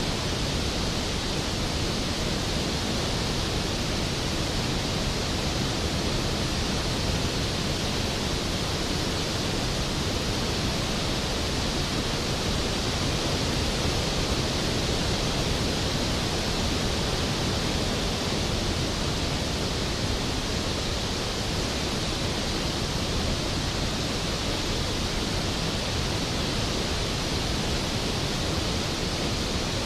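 Skógafoss, a large glacier-fed waterfall, pouring into its plunge pool: a steady, even roar of falling water.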